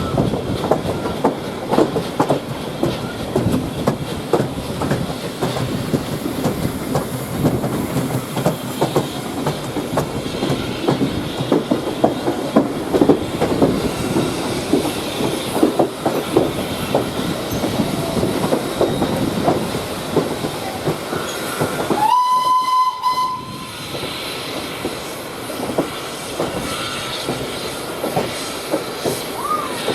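A train running along the track, with a dense, irregular clatter of wheel clicks and rumble. About three quarters of the way through, a short, steady whistle sounds for about a second and a half, and the running is quieter after it.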